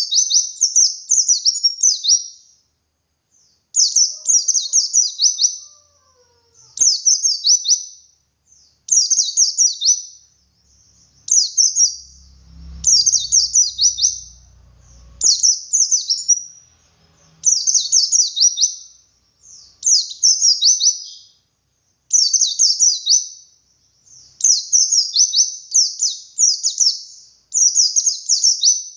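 A white-eye (pleci) singing its long twittering song: phrases of rapid, high, downward-sweeping notes, each lasting one to two seconds, repeated over and over with brief pauses.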